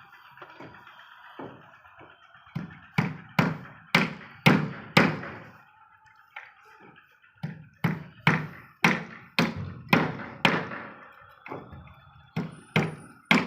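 Hammering: hard strikes about two a second in three runs, each with a short ringing decay and brief pauses between the runs.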